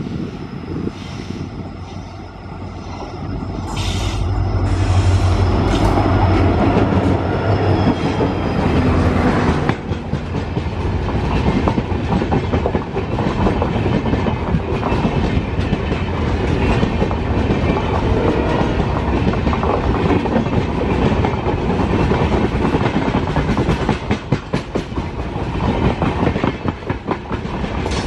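Diesel-hauled train passing close by. The locomotive's low engine hum builds over the first few seconds and dominates for several seconds, then the wagons run past with a steady clickety-clack of wheels over the rail joints.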